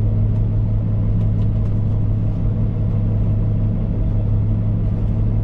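A vehicle's engine running steadily with a constant low drone, heard from inside the cab.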